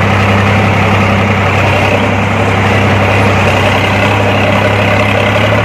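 JCB backhoe loader's diesel engine running steadily, with a deep, even hum.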